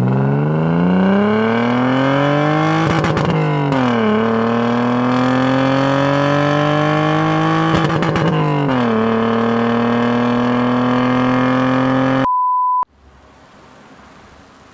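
BMW E36 engine through an RR Performance sport exhaust, revving up with a rising pitch and stuttering on the rev limiter twice, falling back after each, then holding steady revs. The engine sound stops suddenly about twelve seconds in, replaced by a short high beep and then faint hiss.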